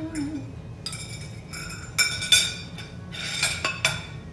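Serving spoon scraping and clinking against a dish as food is dished up, with a few sharp ringing clinks about two seconds in and another cluster past three seconds.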